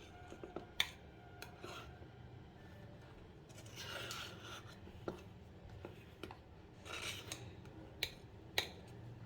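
Kitchen utensils and dishes being handled: scattered light clinks and knocks, with short stretches of scraping or rubbing.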